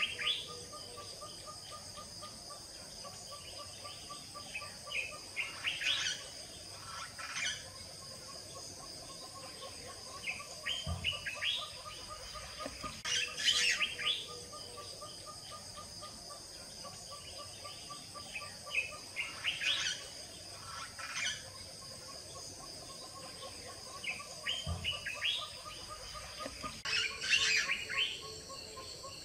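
Birds calling in short bursts of chirps every few seconds, over a steady high insect buzz and a fast pulsing trill.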